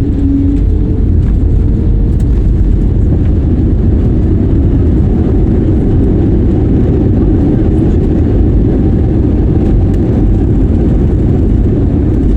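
Steady, loud, low engine rumble with a faint steady hum on top, unchanging throughout.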